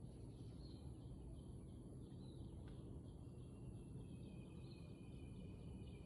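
Quiet outdoor ambience: a steady low rumble with faint, high bird chirps repeating over it, more continuous in the second half.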